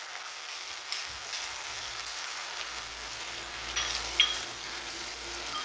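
Frog pieces sizzling in a hot clay pot as sauce is spooned over them and a metal ladle stirs them. A few sharp metal clinks of the spoon and ladle, the loudest a short ringing clink about four seconds in.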